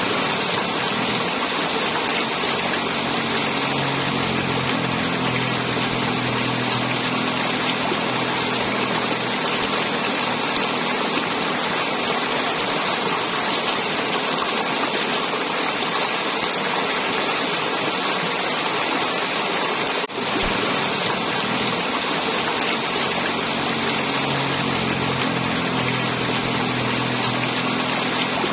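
River water flowing and gurgling steadily over rocks. A low hum runs under it during the first several seconds and again near the end, and the water sound dips briefly about twenty seconds in.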